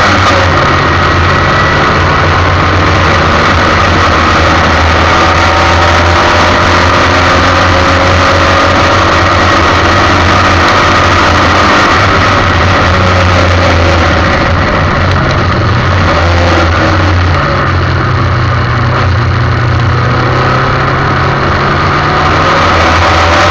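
Formula 1600 single-seater race car engine under load, its pitch rising and falling with throttle and gear changes. It goes slightly quieter around the middle, then climbs again.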